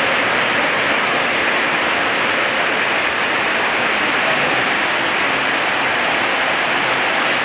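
Model trains running on a metal-rail layout: a steady, even rushing noise of wheels and motors on the track.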